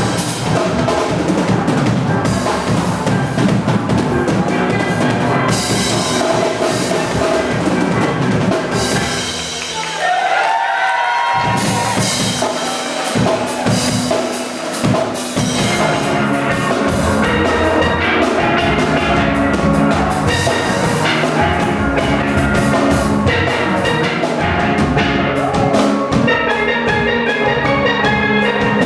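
Steel orchestra playing live: steel pans carrying the melody over a drum kit and bass. About a third of the way through, the drums and bass drop out for a moment, then come back in.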